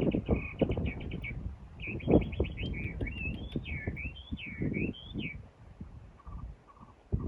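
A songbird singing: a run of quick repeated chirps, then a phrase of whistled notes gliding up and down that stops about five seconds in. Irregular low knocks and scraping sounds run underneath.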